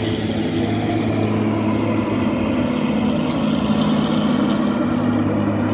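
Train running along the track, heard from on board: a steady engine drone with a rumbling wheel noise.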